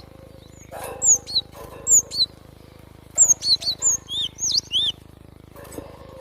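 Gelatik batu (cinereous tit) calling: short, high, sweeping chirps, a few at first and then a quicker run of them about three seconds in.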